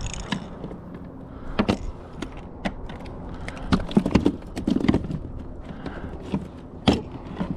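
Irregular knocks and clicks of fishing gear being handled on a kayak, over a low background of wind and water.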